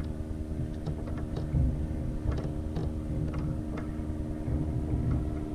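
Steady motor hum with a low rumble underneath and scattered small clicks.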